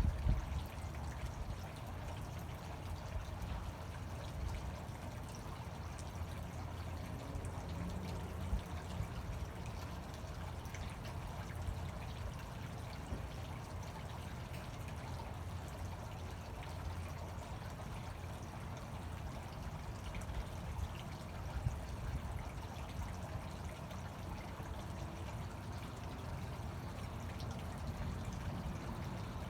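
Fountain water pouring and splashing steadily.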